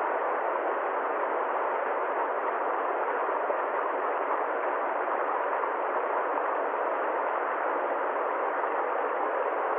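Steady, unchanging noise like a constant hiss or rush, lying in the middle range of pitch with nothing above or below, with no strokes or changes.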